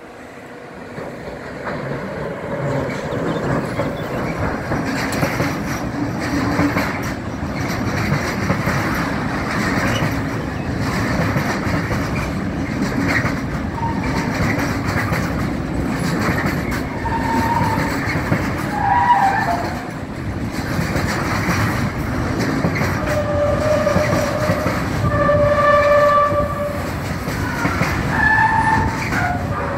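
Long intermodal freight train hauled by an electric locomotive running past close by: a steady rumble and clatter of wagon wheels over the rails, swelling in the first couple of seconds as the train arrives. In the second half, brief squealing tones at several pitches come from the wheels.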